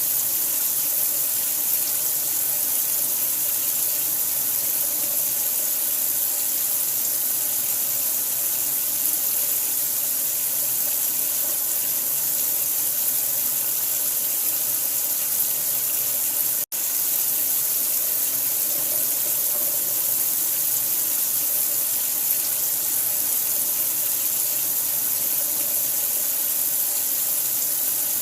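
Steady rush of running water, an even hiss strongest in the high end, with one instant's cut-out about two-thirds of the way through.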